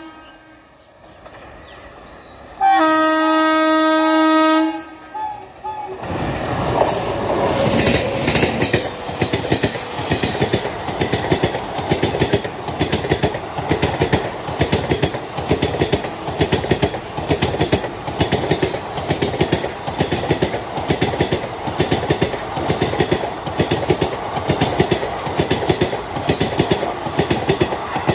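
WAP-7 electric locomotive's horn sounds for about two seconds, then the express passes at speed with a fast, even clickety-clack of wheels over rail joints that runs until it cuts off near the end.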